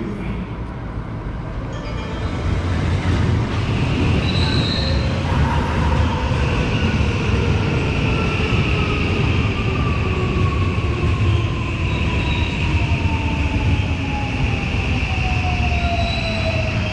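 Eight-car JR electric train pulling into the platform and braking: a low rumble that grows louder, a long falling motor whine as it slows, and a steady high squeal from the wheels or brakes.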